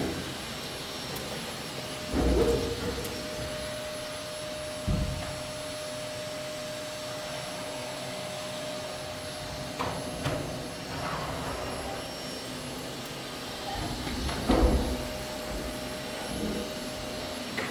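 Vacuum cleaner running steadily, with a thin whine that drops out and returns. Several thumps break in, the loudest about three-quarters of the way through.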